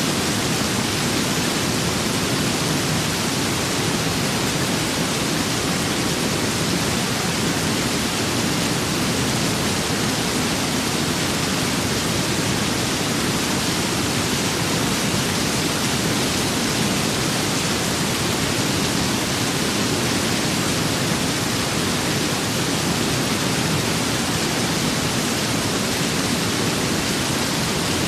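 Steady rain and wind, an even unbroken hiss.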